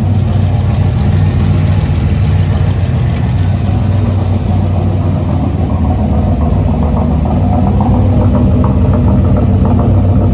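Freshly built turbocharged engine running steadily at idle on its first fire-up, staying alive after earlier stalls.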